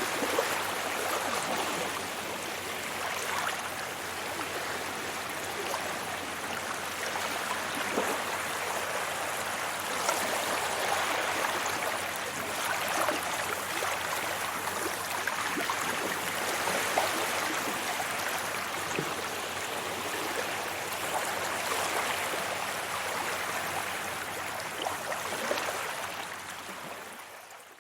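Waves washing onto a beach: a continuous wash of surf that swells and eases gently, fading out near the end.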